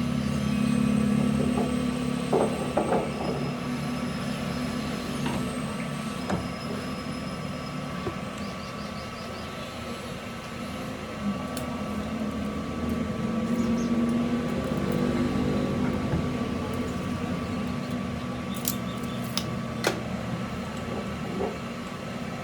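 An engine or motor running steadily, its hum swelling and easing twice, with a few light metallic clicks.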